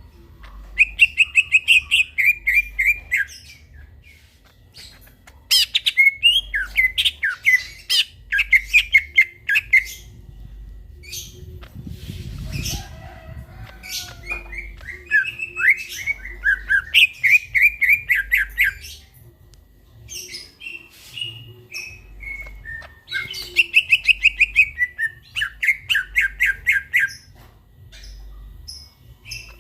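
Cucak ijo (green leafbird) singing: phrases of fast repeated chirping notes, each a few seconds long, broken by short pauses, with a few sharp clicks in between.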